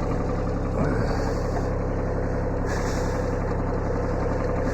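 Kubota B7100 compact tractor's three-cylinder diesel idling steadily at low throttle.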